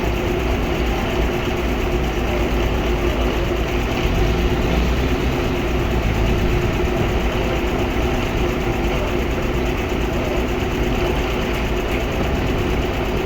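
Sawmill machinery running steadily, a continuous engine-like drone with a constant pitch and no change in load.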